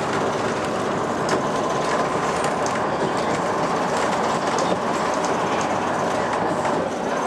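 Train running along the line, heard from inside the carriage: a steady rumble of wheels on rails with a few irregular sharp clicks from the track.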